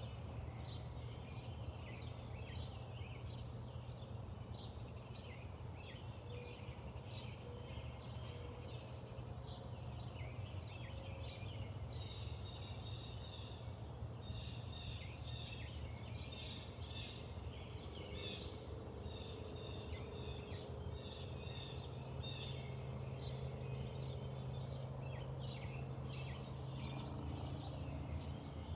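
Small birds chirping in quick, repeated short calls, growing busier for a stretch about midway, over a steady low hum.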